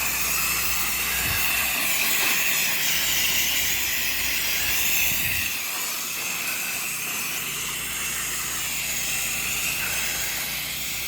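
Soft-wash sprayer hissing steadily as it sprays a chlorine (sodium hypochlorite) wash mix from the nozzle. A low hum underneath fades out about halfway through.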